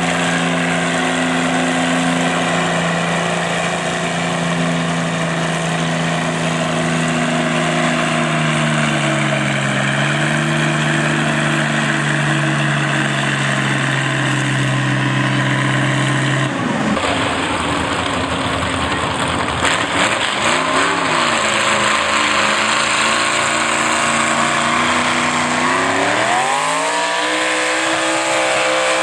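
Loud tractor engine running hard with a steady pitch that sags slightly about a third of the way in. About halfway through it gives way abruptly to a rougher, noisier engine sound, which revs up near the end.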